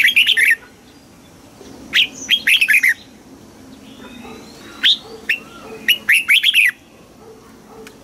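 Red-whiskered bulbul singing its contest song: three bursts of quick, bright, chattering notes a couple of seconds apart.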